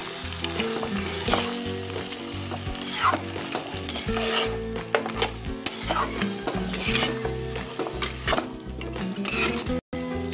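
Metal spatula scraping and stirring mutton leg pieces and sliced onions frying in hot oil in a non-stick kadai: a steady sizzle with a scrape every second or two. Low background music runs underneath.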